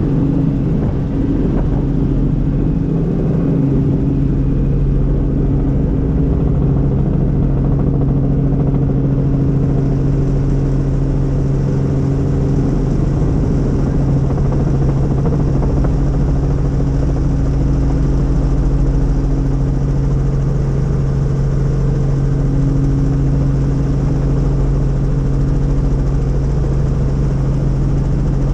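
Helicopter in flight heard from inside the cabin: a loud, steady drone of engine and rotors with a constant low hum.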